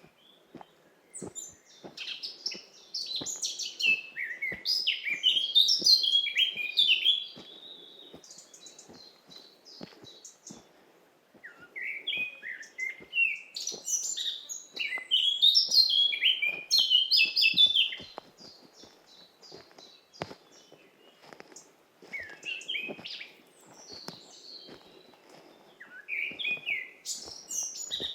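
A songbird singing long, fast warbling phrases, each lasting several seconds, with pauses of a few seconds between them. Soft footsteps on a forest path run underneath.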